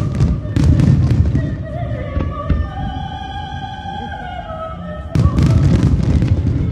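Aerial fireworks bursting in rapid volleys of booms and crackles, one volley in the first second or so and another from about five seconds in, with a few single cracks between. Underneath, throughout, is the show's music with a wavering sung voice.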